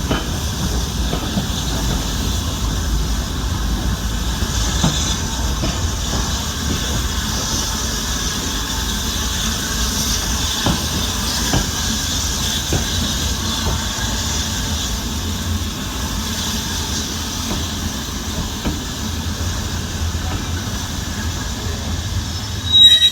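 Train hauled by the steam locomotive 92214 running along the line: a steady low rumble of wheels on rails with hiss and scattered clicks. Near the end comes a brief, sharp, high-pitched squeal.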